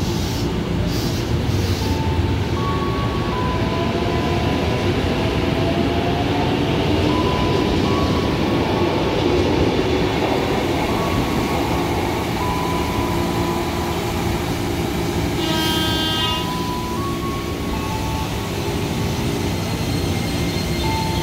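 KRL Commuter electric multiple-unit trains running through the station with a steady rumble of motors and wheels on rail. One short horn blast sounds about three-quarters of the way through.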